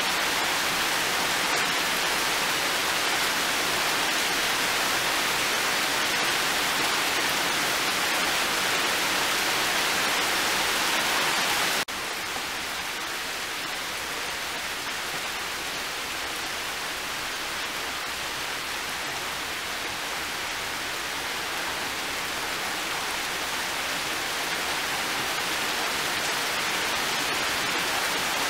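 Heavy rain falling in a steady, even hiss. About twelve seconds in it cuts abruptly to a lighter, quieter rain, which slowly builds again near the end.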